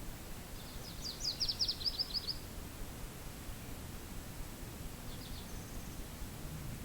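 A songbird sings a fast trill of high notes about a second in, followed by a shorter, fainter burst of notes near the end, over a steady low rush of wind.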